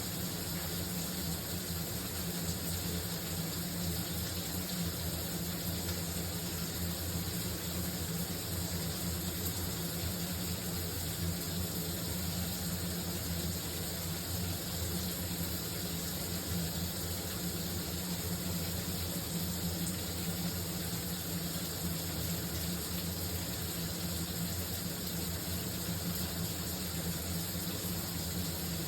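Shower running: a steady, unbroken rush of water spray, with a low hum beneath it.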